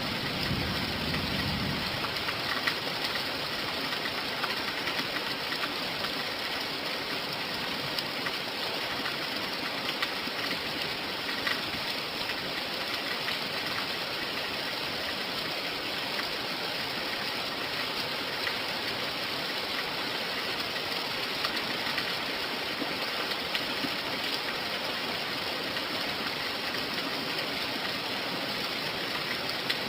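Steady rain falling: an even hiss with scattered small drop ticks. A low rumble dies away in the first two seconds.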